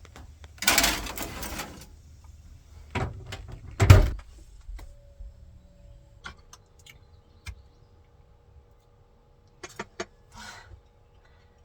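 A door sliding along, then shutting with knocks and a heavy thud about four seconds in. A faint steady hum follows, with a few light clicks.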